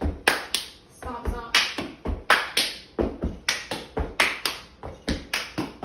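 Body-percussion cheer rhythm: foot stomps on the floor, hand claps and hand slaps in a quick, even pattern of about four hits a second.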